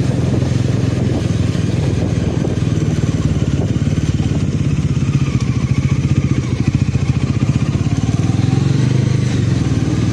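Motorcycle engine running under way at road speed with a steady low hum, easing off slightly in the middle and picking up again near the end.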